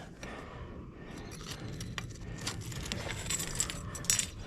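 Light metallic clinking and rattling, many small sharp clicks, over the steady low rumble of the running crucible furnace's burner.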